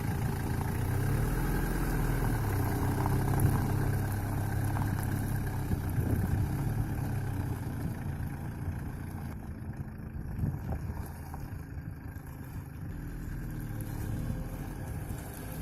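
Car engine running with a steady low hum that wavers slightly in pitch.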